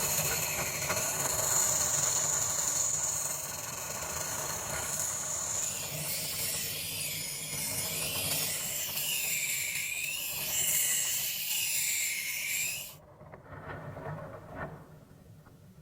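Steady spray hiss, likely paint being sprayed, wavering in repeated sweeps about a second apart in its second half, then cutting off suddenly near the end.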